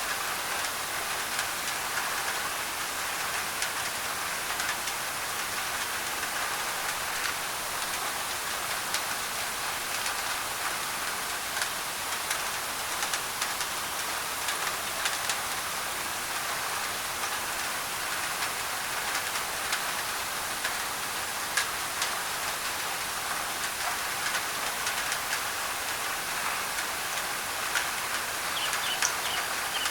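Steady rain falling on a thin tin roof, mixed with white noise: an even hiss dotted with sharp ticks of single drops. Near the end a bird gives a quick run of short chirps.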